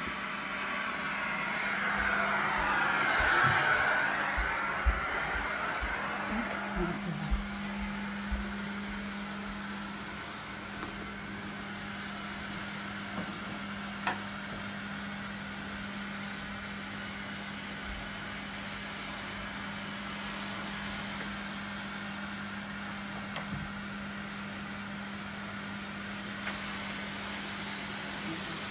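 Carpet-cleaning extraction machine running with a steady hum, wet-cleaning the carpet. It swells louder for a couple of seconds near the start, with scattered knocks over the first several seconds.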